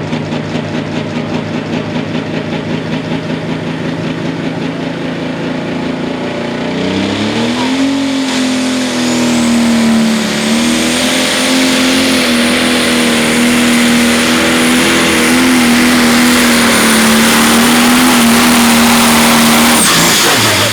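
Pro Stock pulling tractor's turbocharged diesel engine, first running at low speed with a pulsing beat, then revving up about seven seconds in and held at high rpm under load, with a high turbo whine above the engine note. It shuts off suddenly about a second before the end, at the close of the pull.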